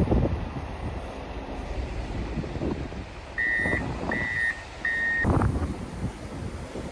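A vehicle's back-up alarm beeps three times, evenly spaced, over low rumbling noise. The alarm is on snow-removal equipment reversing.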